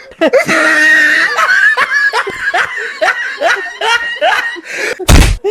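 A person laughing hard in a long run of quick, repeated laughs. About five seconds in comes a sudden, very loud, short blast of noise.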